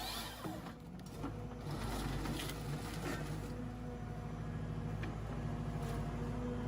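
Tractor engine running steadily, powering a tractor-mounted Hypro 755 harvester-processor, with a few faint knocks.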